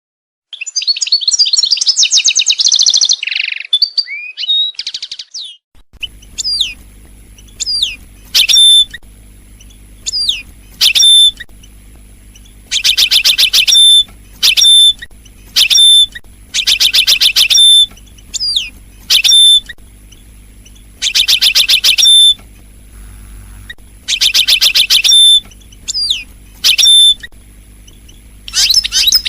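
European goldfinch singing: a dense burst of high twittering, then repeated short call notes and loud fast trills. A faint low hum comes in about six seconds in.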